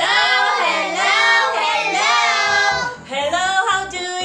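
A child singing in long held notes, with a woman's voice and musical accompaniment.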